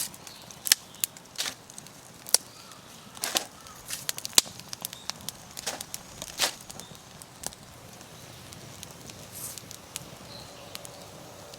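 Wood campfire crackling, with sharp irregular pops over the first seven seconds or so, then thinning out to a faint steady hiss.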